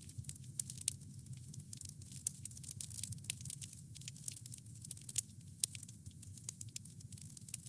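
Wood fire crackling: a dense, irregular run of small sharp pops and snaps over a steady low rumble of the burning fire.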